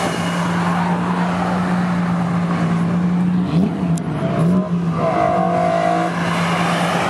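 Sports car engines running as cars drive past, with a steady engine note and a few quick rises and falls in pitch about halfway through as the engines are revved.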